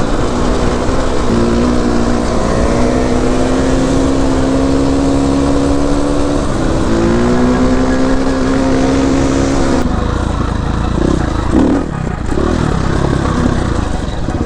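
Dirt bike engine heard from the rider's seat, pulling at steady throttle with its pitch climbing slowly; about halfway the pitch drops briefly and climbs again. About ten seconds in the steady engine note gives way to a rougher, unsteady sound.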